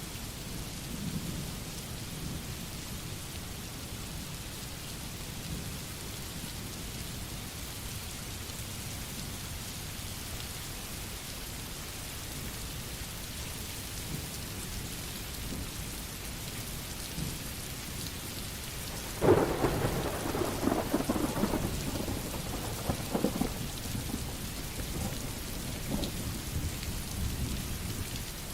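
Steady rain falling. About two-thirds of the way through, a sudden thunderclap crackles and rumbles for a few seconds before fading back into the rain.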